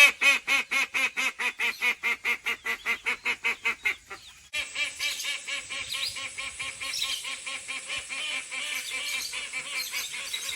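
Call ducks quacking loudly and without pause, a rapid run of about five quacks a second. A little after four seconds there is a short break, then quacking carries on more softly, several birds calling over one another.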